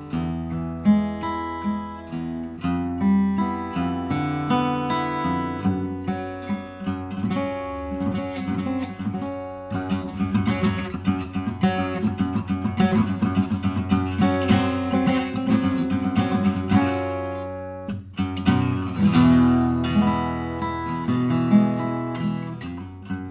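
Pernambuco-back-and-sides OM acoustic guitar with a European spruce top, played solo: picked notes and chords ringing out. The playing turns denser and busier in the middle, breaks off briefly near the end, then goes back to picked notes.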